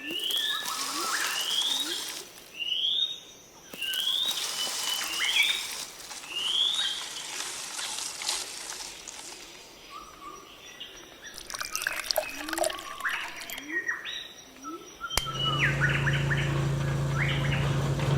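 Birds chirping: a short rising call repeated over and over, then scattered chirps. A steady low hum comes in near the end.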